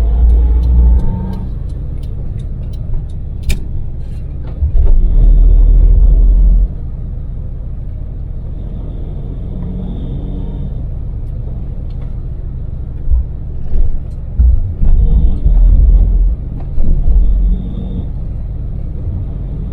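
Daewoo Damas microvan running on LPG, its small engine pulling steadily at cruising speed with road noise all through. Several spells of heavy low rumble swell in and out, and a few light clicks sound in the first few seconds.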